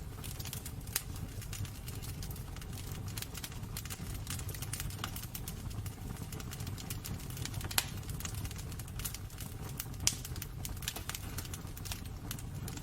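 Wood fire crackling in a fireplace: irregular sharp pops and snaps, a few louder ones near the middle, over a low steady rumble.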